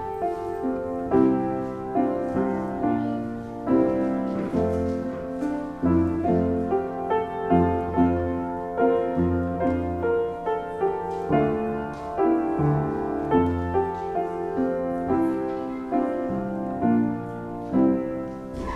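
Slow hymn-like music played on a piano or keyboard, full chords changing at a steady pace of about one a second over a low bass line, with no singing.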